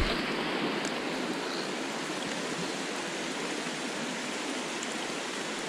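Creek water running steadily over rocks, a continuous rushing noise.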